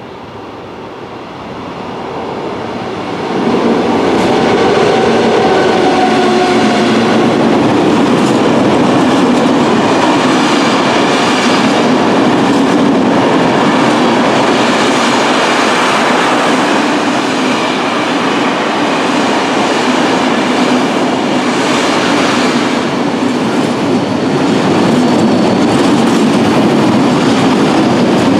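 Train passing close by through a level crossing: the sound builds over the first few seconds, then the wheels roll loudly and steadily over the rails.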